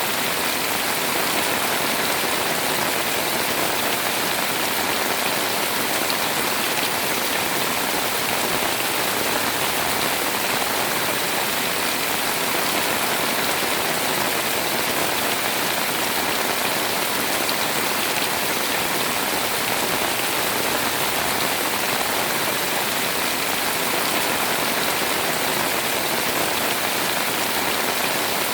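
Heavy rain pouring steadily onto a house, an even, dense hiss of falling water.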